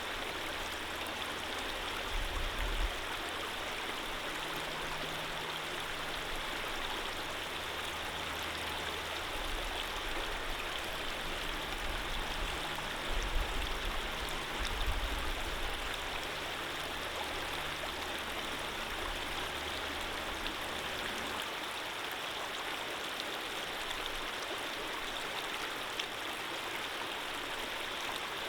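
Running water flowing in a steady, even rush. A low rumble comes and goes underneath during the first two-thirds and is strongest about thirteen to fifteen seconds in.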